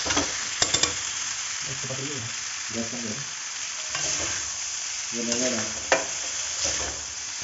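Noodles and vegetables sizzling in hot oil in a kadhai over a gas flame as they are stirred and tossed with a spatula, with a steady frying hiss. A few sharp clicks of the spatula on the pan come near the start and again about six seconds in.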